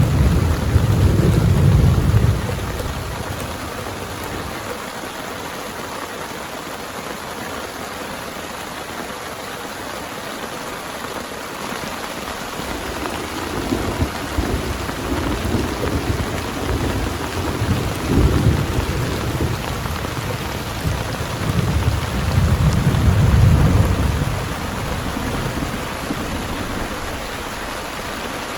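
Steady heavy rain with rolling thunder: a rumble fading out just after the start, another building in the middle, and the loudest rumble near the end.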